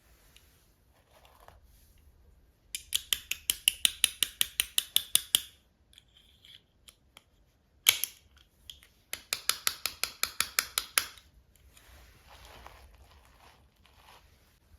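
Scissors snipping through packaging in two quick runs of sharp clicks, about six a second, each run lasting about two seconds, with a single sharp snap between them.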